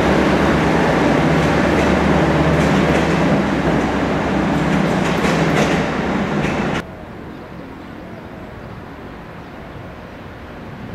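Train running close by: a loud, steady low hum with noise and scattered clicks from the wheels on the rails. About seven seconds in it cuts off abruptly, leaving wind on the microphone.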